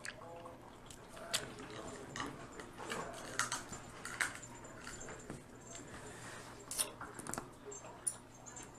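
Dungeness crab being eaten close to the microphone: a few sharp cracks and clicks of shell breaking, with soft chewing between them.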